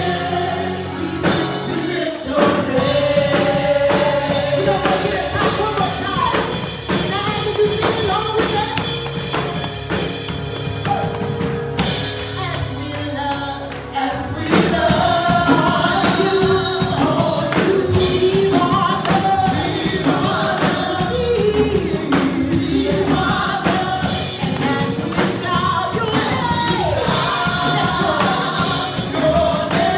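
Gospel praise music with singing, a choir and a shaken tambourine over a full band.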